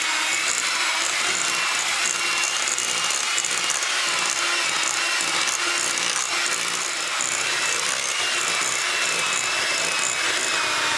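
Electric hand whisk running steadily, beating sponge batter of butter, sugar, flour and eggs in a bowl.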